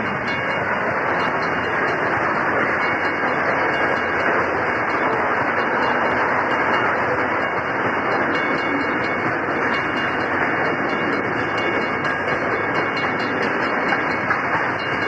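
Flat wagons of a long steel-coil freight train rolling past: a steady rumble and rattle of wagon wheels on the rails.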